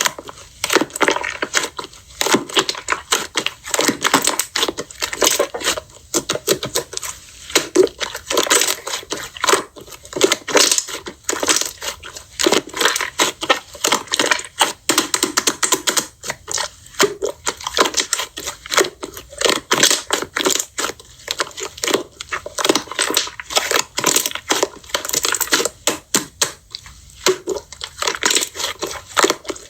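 Hands squishing and kneading slime, a dense run of irregular popping and crackling clicks.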